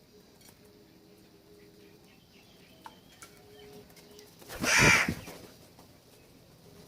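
A crow gives one loud, harsh caw about two-thirds of the way through, over faint chirping of smaller birds.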